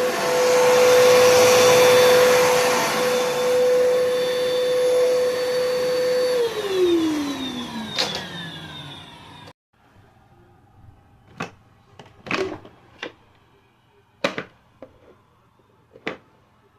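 Bissell PowerForce Bagless upright vacuum cleaner's 10-amp motor running with a steady whine. About six seconds in it is switched off and the whine falls in pitch as the motor spins down. A sharp click follows, then a few scattered clicks and knocks.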